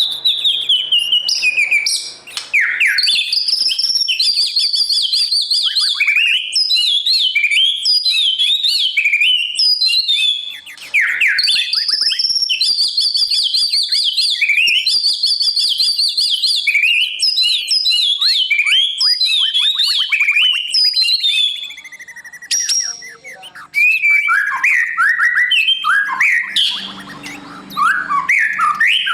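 White-rumped shama singing a long, rich run of varied whistled phrases with rapid trills and slurred notes, broken only by a few brief pauses.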